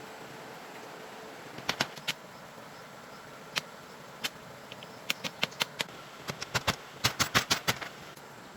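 Sharp knocks or taps, some single and some in quick runs of several a second, most crowded about seven seconds in.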